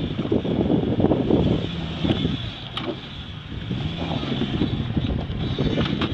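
Suzuki Vitara 4x4's engine pulling at low revs as it crawls up onto a pile of logs, the pitch rising and falling with the throttle, with wind buffeting the microphone.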